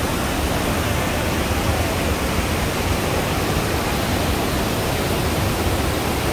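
Iguazu Falls' waterfall roaring: a steady, loud rush of falling water.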